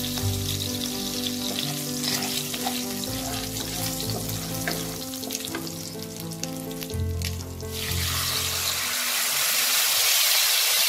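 Mustard oil sizzling and crackling in a kadai with nigella seeds and slit green chillies, stirred with a spatula. About eight seconds in, mustard-and-green-chilli paste goes into the hot oil and the sizzle turns into a louder, steady hiss.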